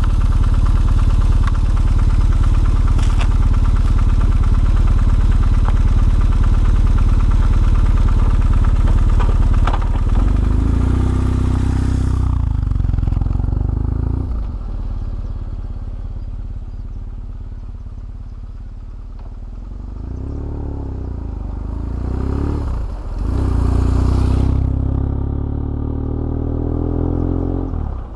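BMW R1150GS boxer-twin motorcycle being ridden: loud wind rush over a steady engine rumble for about the first twelve seconds, then the engine comes through more clearly, dropping and rising in pitch as the bike slows and speeds up again, with a rising pull near the end.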